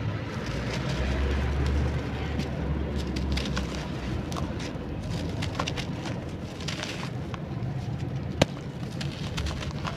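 Crunchy charcoal clay crumbling, with scattered small crackles and crunches and one sharp snap about eight seconds in.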